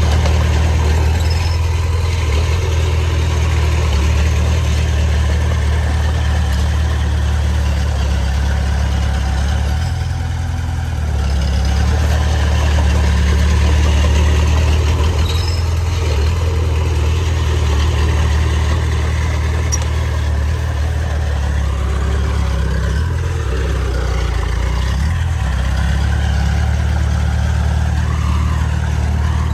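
Heavy diesel engine of earthmoving machinery running steadily with a deep low drone, easing off briefly about ten seconds in and shifting in pitch a little past twenty seconds.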